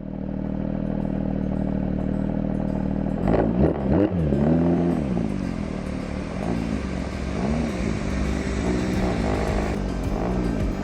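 Porsche 992.1 GT3's 4.0-litre flat-six engine running steadily, then from about three seconds in revving up and falling back several times, each rise and fall lasting about half a second.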